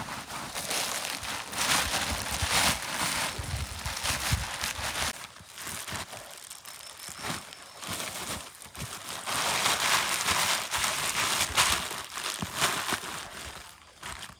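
Irregular rustling and crackling, with bursts of crinkling and tearing-like noise, as of material being handled close up.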